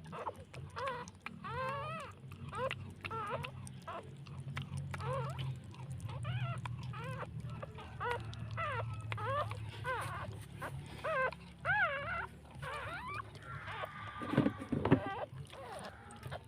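Newborn puppies squealing and whimpering in a rapid run of short, high, rising-and-falling cries, over a steady low hum. A louder rustle and knock comes near the end.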